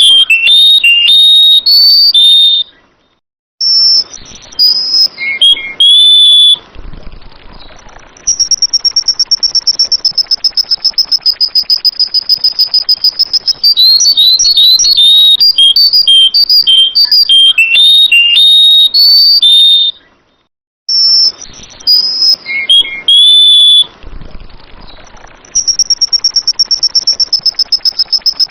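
Sooty-headed bulbul (kutilang) singing short bursts of clear whistled notes, alternating with long stretches of a rapid, even, high-pitched trill. The sound cuts out briefly twice.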